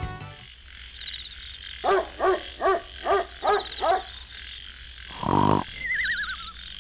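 Night-time sound effects: a frog croaking six times in an even rhythm, with faint high chirping behind it. Near the end comes a cartoon snore, a buzzy snort followed by a falling, wavering whistle.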